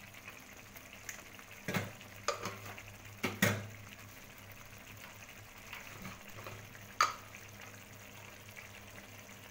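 Masala paste frying in a kadai with a faint steady sizzle. A few sharp clinks and knocks of kitchen utensils come over it, the loudest about three and a half seconds in and another about seven seconds in.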